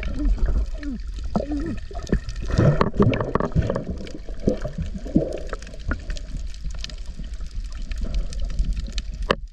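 Sea water splashing and gurgling close around the microphone as a swimmer dives, with scattered splashes and knocks and a few faint voices.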